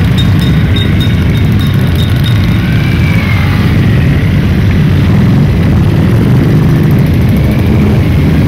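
Many motorcycle engines running together, a loud, steady low drone.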